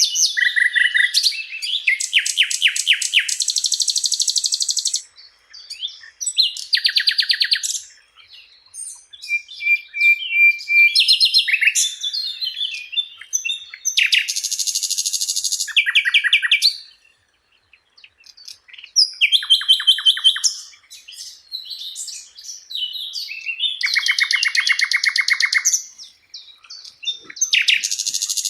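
A Sikatan Londo flycatcher singing a varied run of rapid, high trills and chattering phrases, each one to three seconds long with short pauses between them. This is a master-song recording used to tutor other songbirds.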